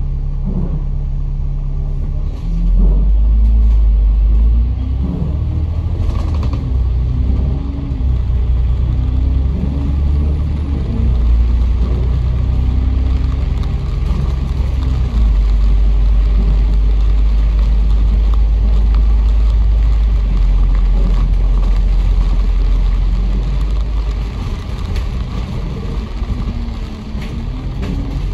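Bus ride heard from inside: a low engine and drivetrain rumble, with the engine pitch rising and falling as the bus speeds up and slows. The rumble grows heavier about two and a half seconds in.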